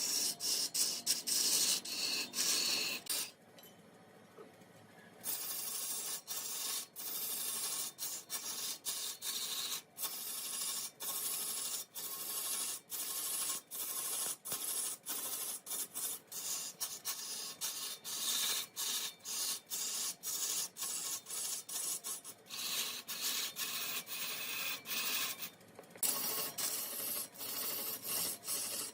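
Mahogany being scraped on a turning woodworking lathe: a steady, mostly high hissing rasp interrupted by many brief breaks, dropping away for about two seconds near the start.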